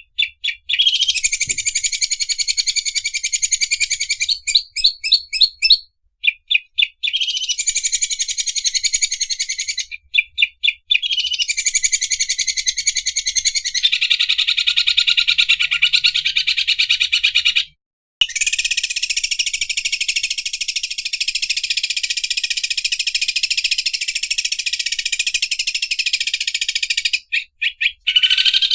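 Greater green leafbird (cucak ijo) singing its 'mesin obras' song: long runs of a fast, rasping, high-pitched trill that sounds like an overlock sewing machine, broken a few times by short pauses with a handful of separate clipped notes.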